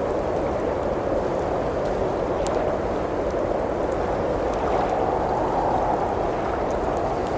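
Blizzard wind blowing steadily, rising and falling in slow swells, with a few faint crackles from a wood fire.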